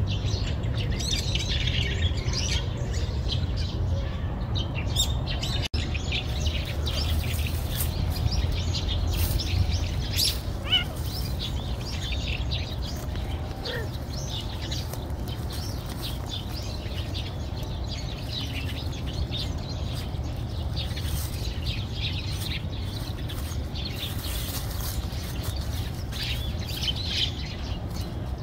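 Small birds chirping and calling on and off over a steady low rumble, with a brief dropout about six seconds in.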